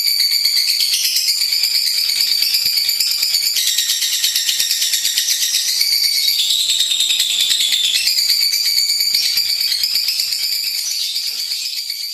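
A lovebird sings a long, unbroken, high-pitched chattering trill made of very fast rapid-fire pulses. The pitch shifts every second or two, and the song begins to fade near the end.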